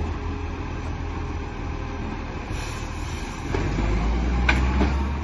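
Garbage truck engine running with a steady low rumble that grows louder about three and a half seconds in, with two sharp knocks near the end.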